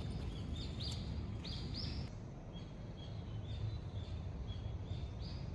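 Light rain falling, a steady hiss with a low rumble underneath. Over it, high short chirping calls repeat two or three times a second.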